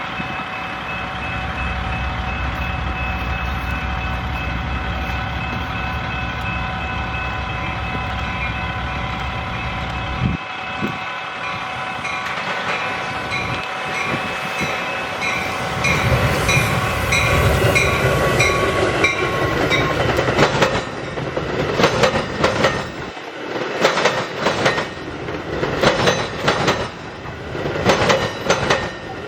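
A train passing close by: a steady locomotive drone for about the first ten seconds, then from partway through the rhythmic clicking of wheels over rail joints as the cars roll past.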